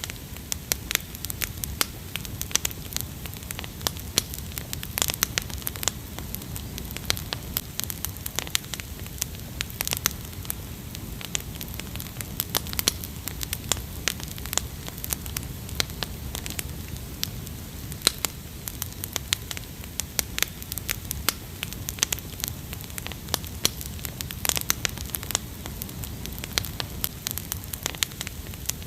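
Campfire crackling, with frequent sharp, irregular pops over a low steady rush.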